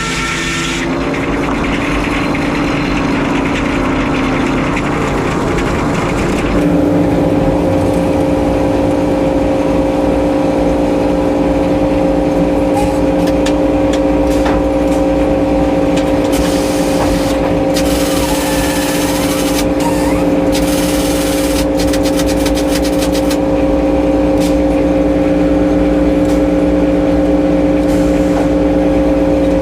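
Frick sawmill running: a loud, steady drone with a constant pitch, which rises slightly and grows louder about six seconds in and then holds.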